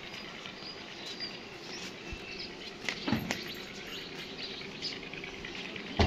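Outdoor ambience with scattered small bird chirps, and a single short knock about three seconds in.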